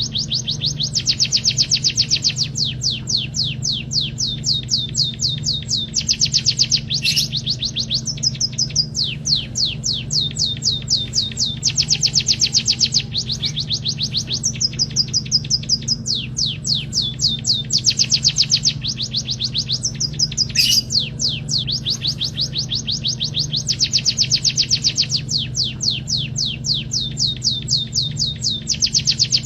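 Emprit kaji (white-headed munia) singing a canary-learned song: a continuous run of rapid, high trills of repeated notes in phrases of a second or two, each phrase switching to a new trill. A steady low hum runs underneath.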